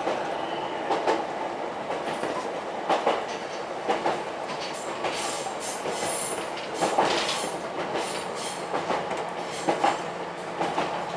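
Ichibata Electric Railway 7000 series electric railcar running along the line, heard from inside the car: a steady rumble of running noise with clicks of the wheels over rail joints, some in close pairs, every second or two.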